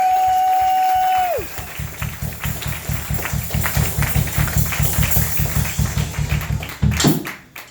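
Audience applauding, with one long high whoop held for a second or so that falls off about a second and a half in. A low, fast, even pulsing follows, with scattered claps over it, and cuts off suddenly near the end.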